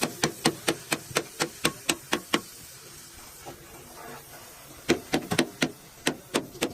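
Repeated hammer blows, about four a second, stopping after about two and a half seconds and starting again about five seconds in.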